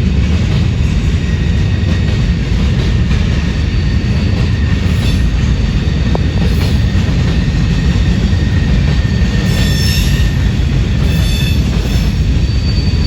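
Norfolk Southern manifest freight train rolling past: a loud, steady rumble of wheels on rail, with thin high-pitched wheel squeals coming in near the end.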